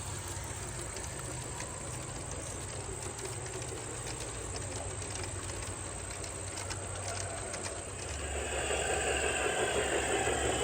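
Garden-scale model train running on its track, a steady mechanical hum and rattle with light clicking, growing louder near the end.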